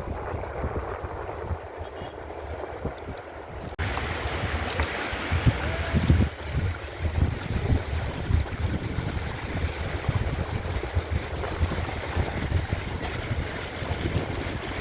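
Wind buffeting the microphone with a low rumble. About four seconds in, the sound cuts to the steady rush of a mountain stream, with the wind rumble still underneath.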